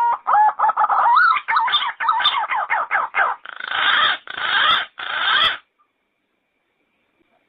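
Yellow-footed green pigeon calling: a quick run of warbling whistled notes that glide up and down, ending in three harsher, noisier notes. It stops a little past halfway.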